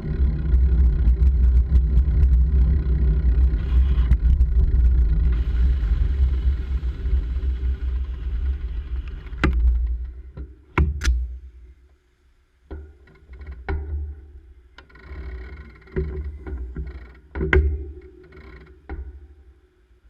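Wind and road rumble buffeting the microphone of a camera riding along on a bicycle, which dies away about ten seconds in. After that come scattered sharp clicks and knocks with softer rustling between them.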